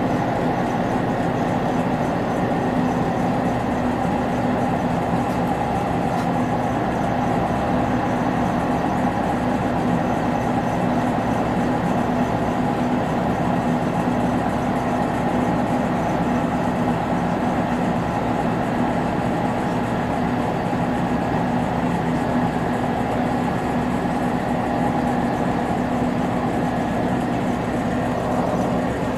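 Cabin noise of a Finnish Lättähattu (VR Dm7) diesel railbus running at speed: a steady drone of engine and wheels on the rails, with a few held tones, unchanging throughout.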